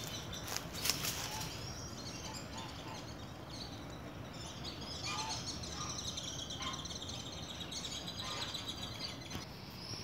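Small birds chirping, with a rapid, repeated high twittering from about halfway through. A few crackles of dry leaf litter underfoot near the start.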